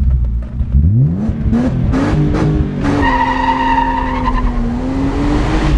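BMW E36 M3's straight-six engine, heard from inside the cabin, revving up hard under acceleration just after a gear change, then holding a fairly steady high note. Tyres squeal for about a second and a half midway.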